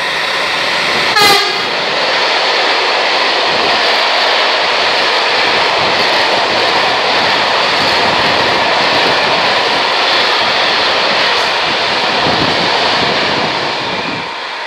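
A Siemens Vectron electric locomotive hauling a freight train of covered hopper wagons runs through the station. It gives a short horn blast about a second in. After that comes the steady loud rolling and rattling of the wagons passing close by, easing slightly near the end.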